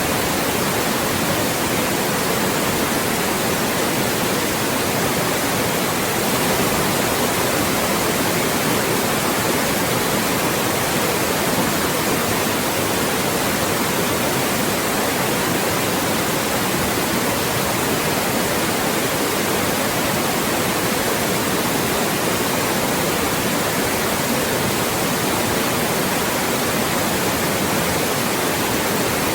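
Loud, steady white noise: an even, unchanging hiss spread across the whole range.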